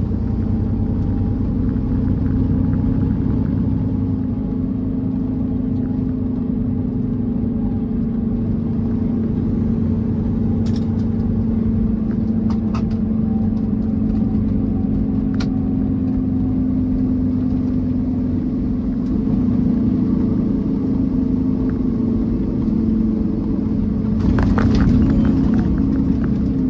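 Peterbilt 389 semi truck heard from inside the cab while driving: a steady diesel engine drone with road noise and a few light clicks. Near the end the cab rattles and jolts as the truck goes over a bump at railroad tracks.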